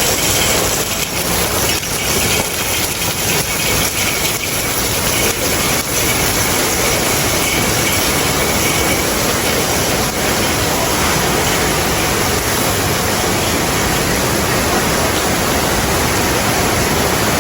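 Heavy rainstorm: a dense downpour pouring and splashing steadily and loudly, wind-driven.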